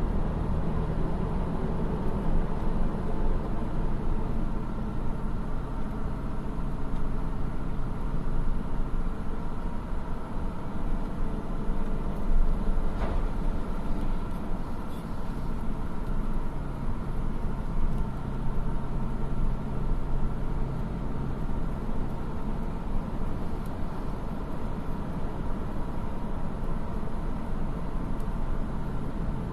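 Heavy earthmoving machinery with a diesel engine running steadily, a continuous low hum.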